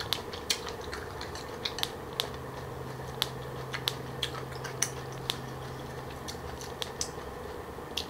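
Close-up chewing of crunchy green papaya and pig-ear salad: sharp, irregular crackling clicks about one or two a second, over a steady low background hum.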